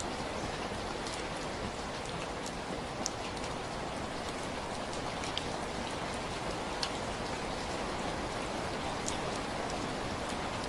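Steady rainfall, an even hiss of rain with scattered individual drops ticking sharply on a hard surface now and then.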